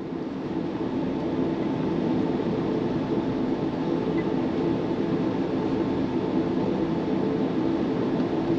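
Steady cabin hum inside an Airbus A350-1000 airliner before takeoff: an even rush of air and engine noise with a low droning tone. It fades up over the first couple of seconds, then holds level.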